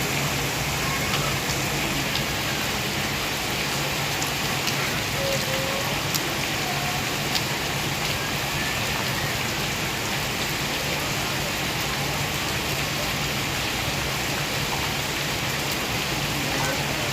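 Heavy rain falling steadily, an even hiss with now and then a sharper tick of a single drop.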